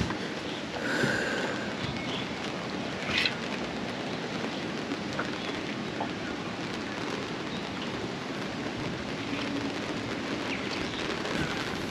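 Steady rain shower falling, an even hiss of drops, with a couple of brief louder sounds about one and three seconds in.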